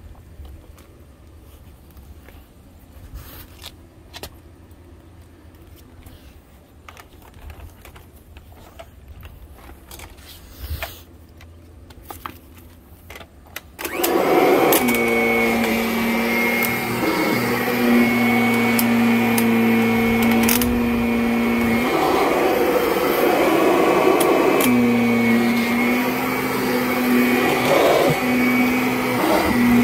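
Faint clicks and rustles of a cord being handled for about fourteen seconds, then a Kirby Avalir 2 upright vacuum cleaner switches on suddenly and runs loudly over a rug, its steady motor tone dipping briefly now and then as it is pushed back and forth.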